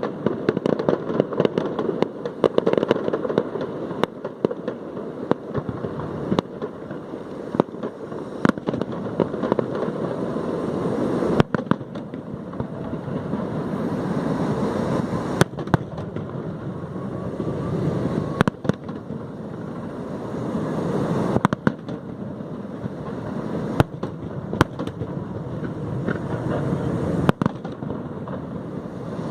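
Aerial fireworks display: a dense, continuous crackling that swells and eases, broken by sharp bangs every second or few.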